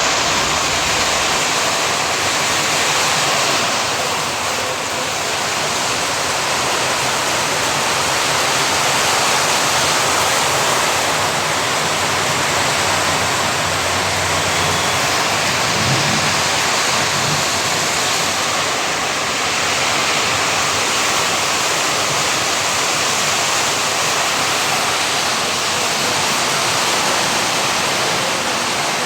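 Heavy rain pouring down in stormy wind, a loud steady hiss that swells and eases slightly.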